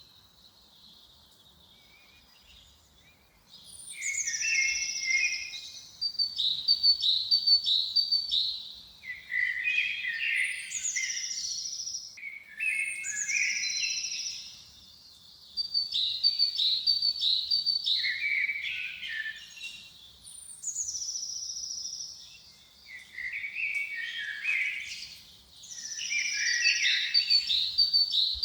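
Songbird singing: after a few quiet seconds, a run of song phrases, each opening with a high falling whistle and going into quick trills, one phrase every two to three seconds.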